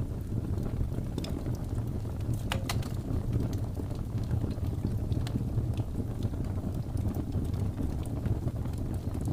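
Wood fire crackling in a fireplace, with scattered sharp pops and snaps, the loudest about two and a half seconds in, over a steady low rumble of blizzard wind.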